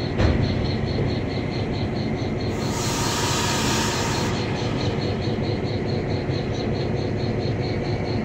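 Steady rumble of a slow-moving train ride behind a GP7 diesel locomotive, heard from aboard the train. A loud hiss comes in about two and a half seconds in and stops near the middle. Insects chirp in a fast regular pulse underneath.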